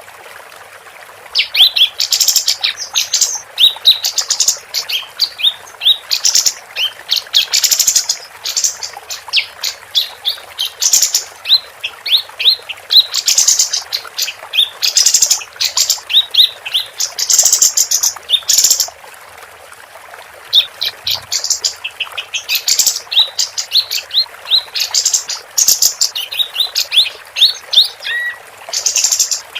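Female kapas tembak, a bulbul, singing in loud, rapid phrases of quick high chirping notes, each phrase lasting a second or two, with a pause of about two seconds past the middle.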